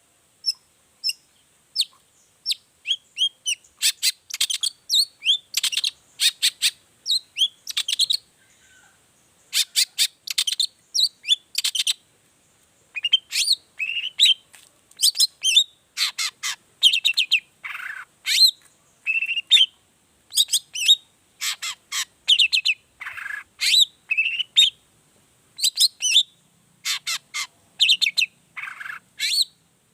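Long-tailed shrike (cendet) singing in rapid runs of short, sharp chirping notes, with brief pauses between the runs.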